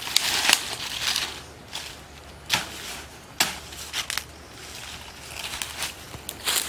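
Irregular crunching and rustling, a string of short scraping bursts and a few sharp clicks at uneven intervals.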